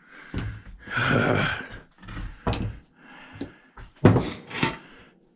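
Irregular knocks, clicks and scraping as parts of a cash register and hand tools are handled on a workbench during a teardown.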